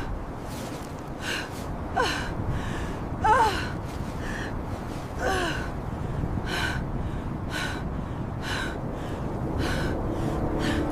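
A woman's labored, gasping breaths, about one a second, over a low rush of wind, with a few short wavering cries in her voice early on.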